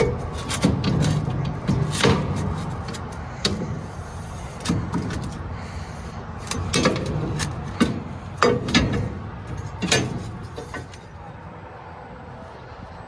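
A dozen or so irregular sharp knocks and clatters, most of them in the first ten seconds, over a steady low rumble that eases near the end.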